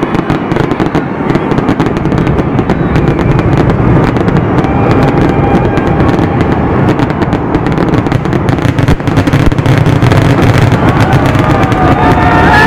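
Aerial fireworks in a dense, continuous barrage of rapid bangs and crackling over a heavy low rumble.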